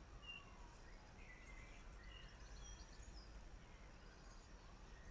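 Faint garden birdsong: scattered short, high chirps and calls from small songbirds over a low steady rumble.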